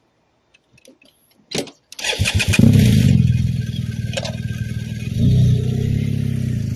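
BMW GS Adventure boxer-twin motorcycle engine started: a few faint clicks, then a brief crank at about two seconds and it catches with a quick rev, settles to a steady idle, and revs up again near the end as the bike pulls away.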